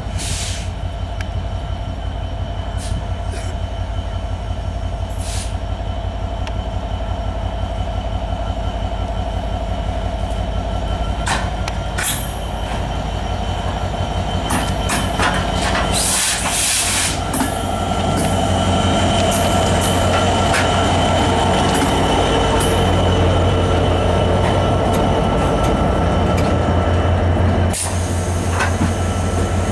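Diesel-hauled passenger train moving off slowly from a standstill. The locomotive's engine runs with a steady low rumble, and the wheels squeal thinly against sharp clanks and clicks from the coaches. It grows louder over the second half.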